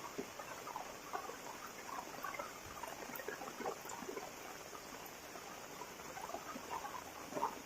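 Rain pattering, with many separate drops falling close by in an irregular stream and one louder drop near the end.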